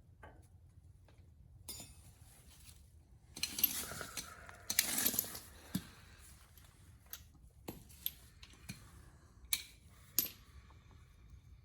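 Metal tools and car parts clinking and rattling during hand work, with two brief rattling stretches about three and a half and five seconds in and several separate sharp clicks.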